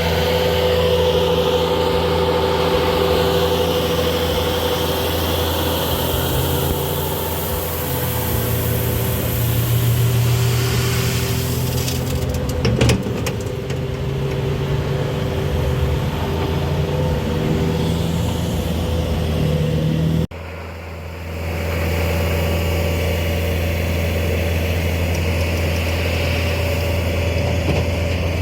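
Pickup truck engine running steadily, with a brief knock about halfway through. The sound breaks off abruptly about two-thirds of the way in and the engine sound resumes.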